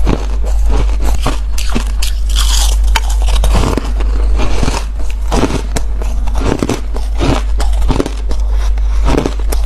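A person biting into fluffy, squeaky ice, crunching it again and again in a string of crisp, irregular bites.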